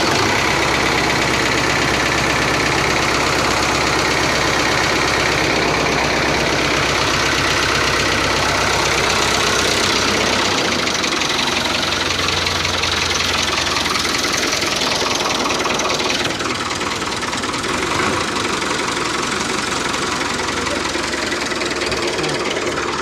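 An engine running steadily at idle with a regular knocking beat; its sound shifts about ten seconds in and again around sixteen seconds.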